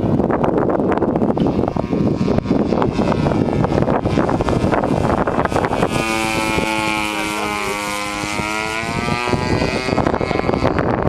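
Wind buffeting the microphone, then about six seconds in the steady pitched drone of a radio-controlled model airplane passing in flight, its pitch bending as it goes by and fading about three seconds later.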